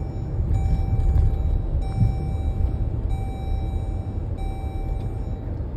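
Low rumble of a car driving, with a steady electronic beep repeating about once a second, each beep held just over a second with short breaks between.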